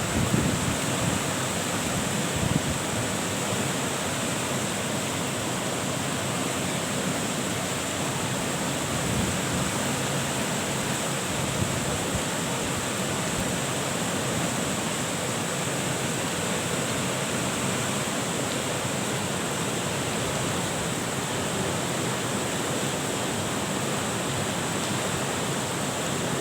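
Steady, unbroken rushing noise of a storm, heavy rain, strong wind and running water blending together.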